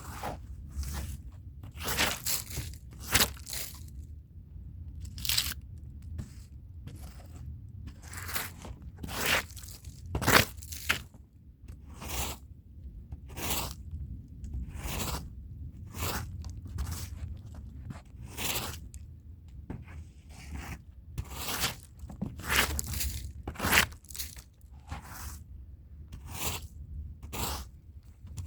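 Stiff-bristled brush scrubbing a rug by hand in separate, uneven scratchy strokes, about one a second.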